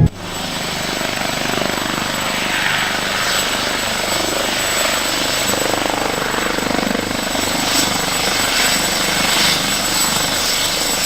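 Helicopter running steadily, its rotor and engine noise loud and even.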